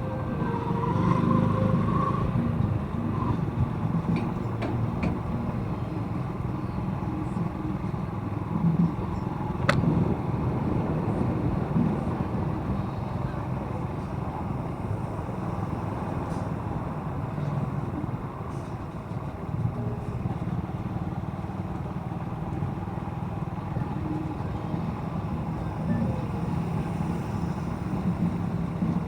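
Motorcycle engine running steadily while riding, with road and wind noise, and a single sharp click about ten seconds in.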